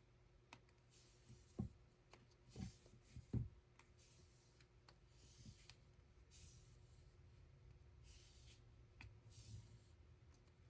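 Hand weaving at a loom, heard faintly: soft swishing rubs of yarn about once a second, with a few low thumps in the first few seconds.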